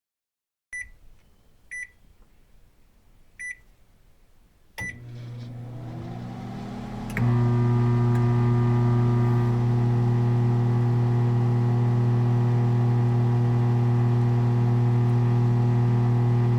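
Microwave oven being set and run: four short keypad beeps, then it starts up with a hum that swells and, about halfway through, steps up to a steady, loud buzzing hum that cuts off suddenly at the end.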